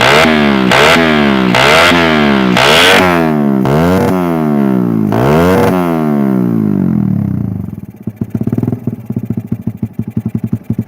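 Suzuki Satria FU motorcycle engine through an RCB aftermarket exhaust, blipped on the throttle again and again so the pitch shoots up and falls back, then settling to a lumpy, pulsing idle about eight seconds in.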